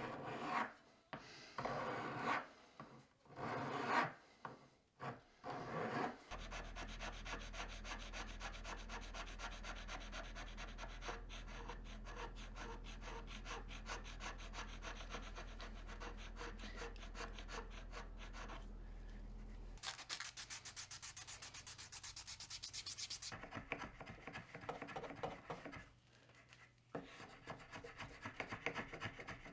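Sandpaper rubbing on a small carved wooden piece in repeated strokes. A steady low hum runs under the fast, even strokes in the middle stretch, and a brief hiss follows it.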